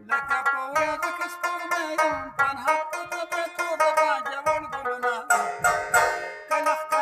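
Rubab played solo: quick runs of plucked notes, with a brief pause a little over two seconds in and a flurry of rapid strokes around five seconds in.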